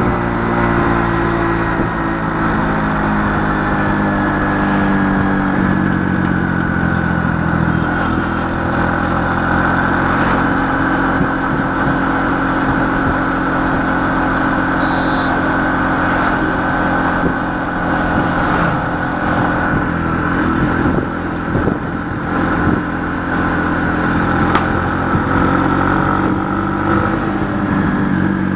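A motor vehicle's engine running steadily throughout, its pitch shifting slightly a few times, over road or wind noise.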